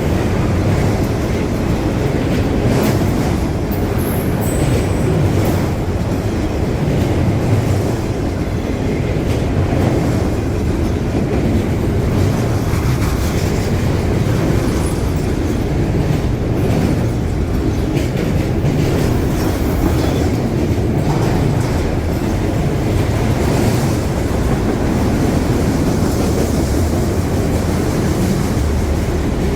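CSX freight train rolling past, a steady loud rumble of wheels on rail with a clattering of the cars over the track.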